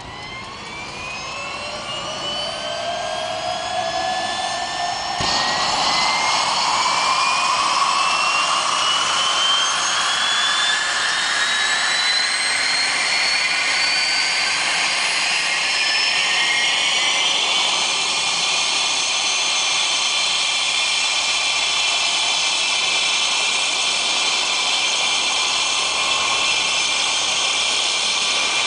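Helicopter turbine engine starting up: a whine rising steadily in pitch and growing louder, with a sudden rush of noise joining about five seconds in. The whine stops rising after about eighteen seconds and holds steady.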